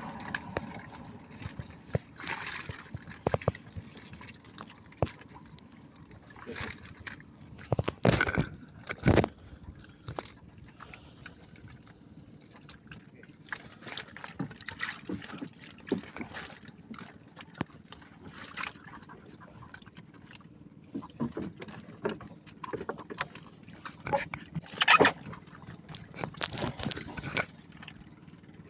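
Water sloshing and splashing with irregular knocks and clatter on a small fishing boat, the loudest bursts about eight seconds in and near the end.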